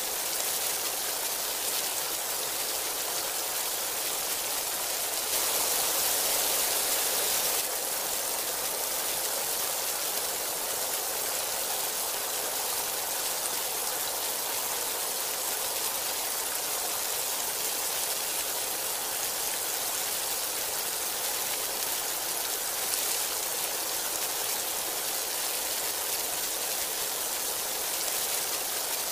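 Heavy rain falling steadily, an even hiss of downpour. About five seconds in it turns louder for roughly two seconds, then drops back.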